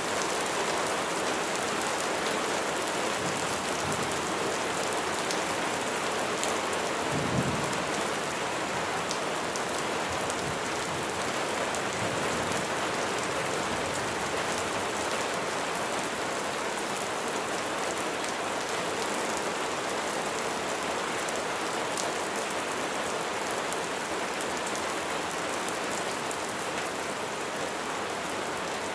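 Steady heavy rain falling, with a short low rumble of thunder about seven seconds in.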